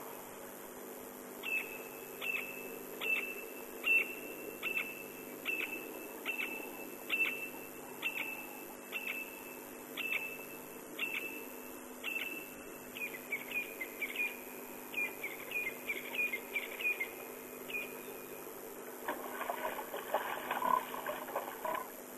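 A bird calling a long series of short, high whistled notes, about one a second, which break into quicker doubled notes before stopping. Near the end a rougher chattering sound takes over.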